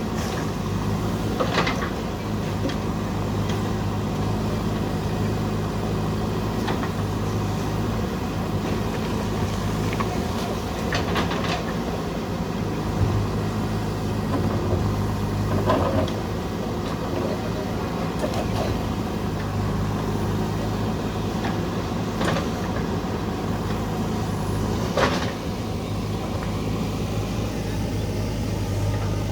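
JCB 3DX backhoe loader's diesel engine running steadily under work, with a few sharp clanks and knocks scattered through it.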